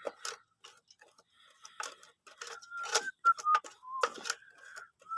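Irregular clicks and knocks of hard objects being handled, with a few short high squeaks in the second half; no motor is running.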